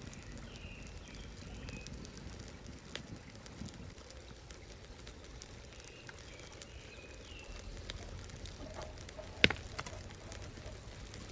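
Outdoor ambience with a low steady rumble and two short runs of faint bird chirps. A single sharp click about nine and a half seconds in is the loudest sound.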